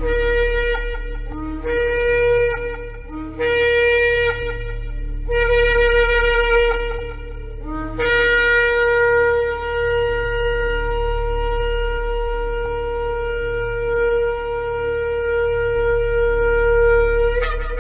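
Shofar (ram's-horn trumpet) blown in five blasts, each opening on a brief low note that leaps up to a higher held note. Four shorter blasts are followed by one long sustained blast that breaks upward just before it ends. A low steady hum runs underneath.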